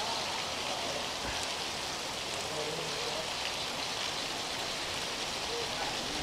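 Steady rain falling on a street, an even hiss with no let-up.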